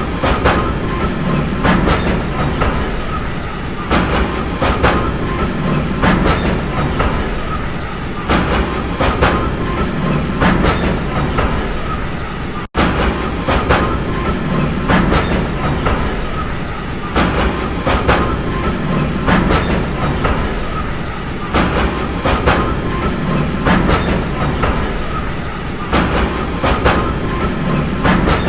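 Train running along the track: a steady rumble with clusters of sharp clickety-clack as the wheels pass over rail joints. The sound cuts out for a split second about halfway through.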